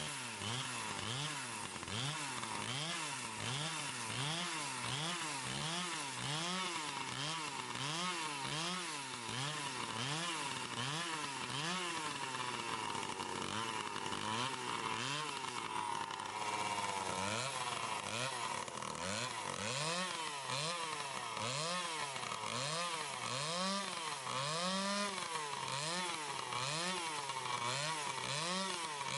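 Chainsaw cutting wood, its engine pitch rising and falling over and over as the chain bites and is eased back.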